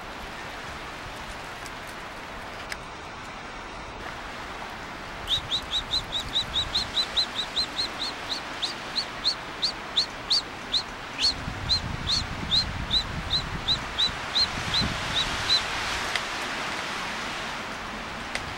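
A bird calling a long series of short, high, upslurred notes, about three a second, for some ten seconds, starting about five seconds in.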